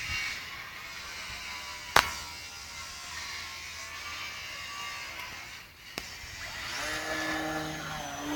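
Small electric motor and propeller of a foam-board RC Cessna model whining steadily in flight, with a sharp click about two seconds in and a fainter one about six seconds in; a lower hum joins near the end.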